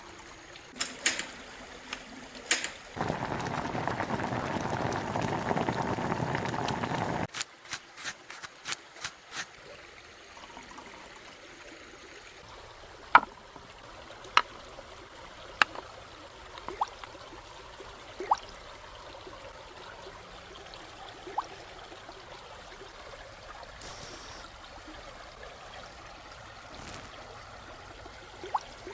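A stream trickling steadily. A few seconds in, a louder rushing noise runs for about four seconds and stops abruptly. A quick run of clicks follows, then a series of single sharp knocks about a second apart.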